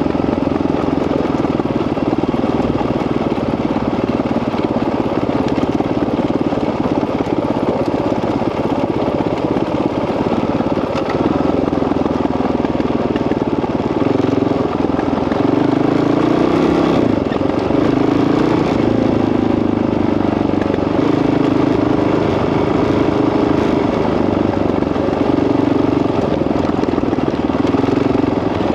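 Honda CRF dirt bike's single-cylinder engine running steadily as it is ridden. The pitch rises and falls with the throttle through the second half.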